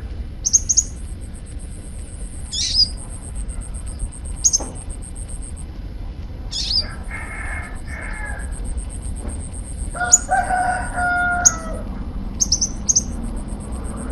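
Kolibri ninja sunbird calling: short, sharp, high chirps every second or two, between long, rapid, very high buzzing trills. A lower drawn-out call comes in about ten seconds in.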